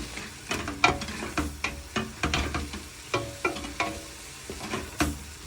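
Chopped onions frying and sizzling in oil in a pan over full heat, while a spoon stirs them with repeated irregular knocks and scrapes against the pan.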